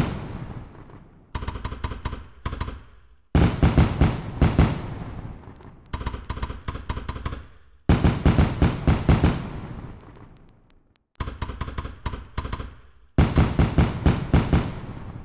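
Fireworks exploding in volleys: clusters of rapid sharp bangs every two to three seconds, louder and softer volleys taking turns, each dying away over a second or two.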